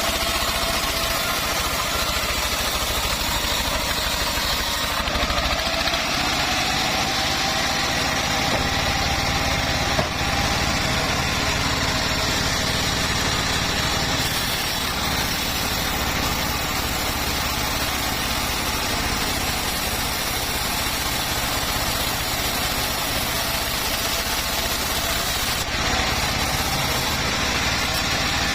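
Homemade engine-driven bandsaw sawmill running steadily, with a continuous machine drone and a faint tone that rises slightly about five seconds in. A single short click comes near the middle.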